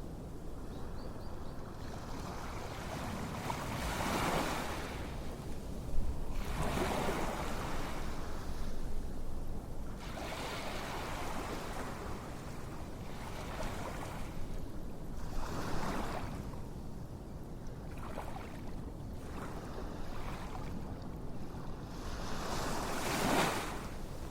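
Ocean waves washing in: a steady rush of surf that swells and falls back every few seconds, with no music over it.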